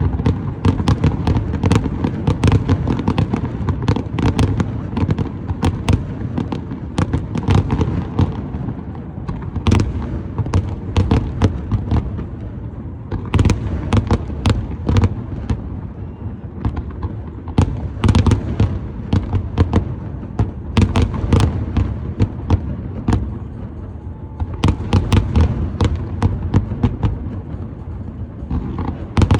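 Fireworks display: a dense barrage of sharp bangs and crackles, several a second, over a continuous low rumble of booming shells. The barrage thins briefly twice, about a third of the way in and again toward the end.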